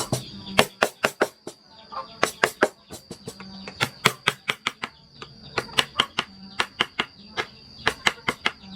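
Rapid, uneven strikes of a mallet on a wood-carving chisel cutting into wood, several per second in short runs with brief pauses. A faint steady high-pitched tone runs behind.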